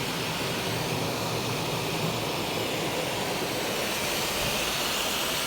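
Automatic car wash spraying rinse water over the car: a steady hiss of water jets, growing a little brighter near the end.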